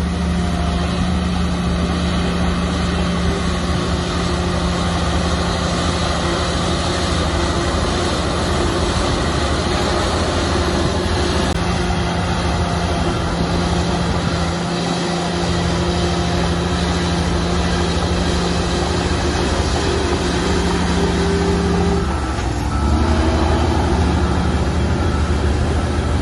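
Shantui bulldozer's diesel engine running steadily under load. A few seconds before the end its note dips briefly, then picks up again a little louder.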